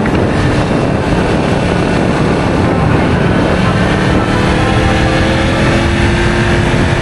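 Yamaha MT-10's crossplane inline-four engine and exhaust running under way, a dense, steady rumble whose pitch rises gently over the second half as it pulls harder.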